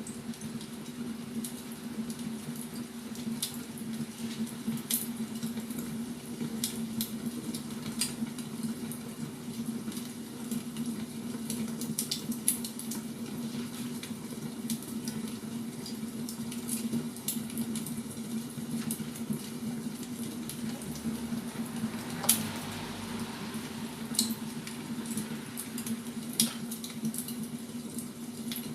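Wood fire crackling: scattered sharp pops and snaps over a steady low hum, with one louder pop and hiss about 22 seconds in.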